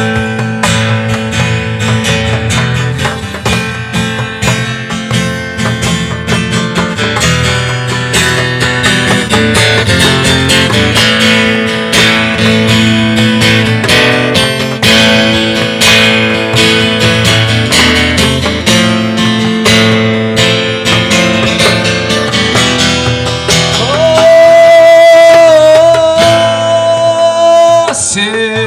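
Instrumental break of a rock song, with guitar strumming over a steady accompaniment. Near the end, one long high note is held for about four seconds.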